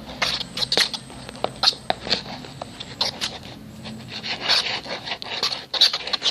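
Fluffy slime of glue, shaving foam and liquid borax being stirred, giving irregular wet, sticky clicks and crackles as the borax starts to set it.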